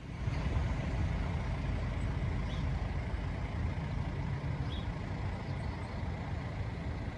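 Steady low rumble and road noise of a car or truck driving.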